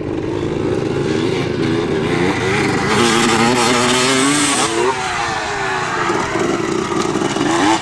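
Dirt bike engine revving hard, its pitch climbing to a loud peak about three to five seconds in, then dropping as the bike passes and runs on.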